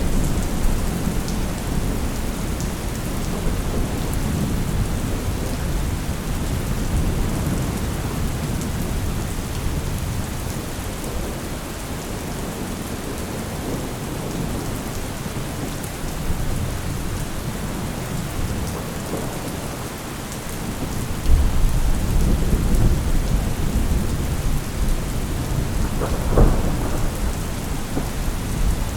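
Thunderstorm: steady rain with low rolling thunder that swells about two-thirds of the way through, and a sharper thunderclap near the end.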